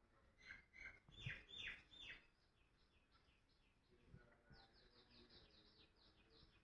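Near silence with faint bird chirps: a few short falling chirps in the first two seconds, then a quicker series of high chirps from about four and a half seconds in.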